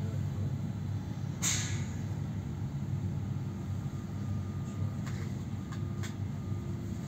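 Steady low hum inside a stationary double-decker train carriage, with a short sharp hiss about a second and a half in and a few faint clicks near the end.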